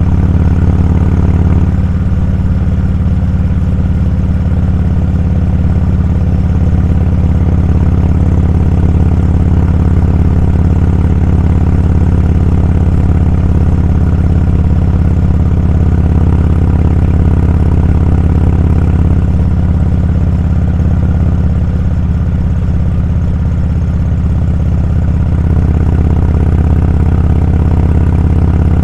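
Motorcycle engine running steadily while riding, loud and close.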